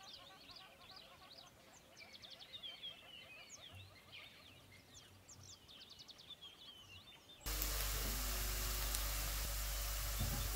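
Faint bird chirping for about seven seconds, then an abrupt cut to loud sizzling of onion and brinjal frying in oil in a wok.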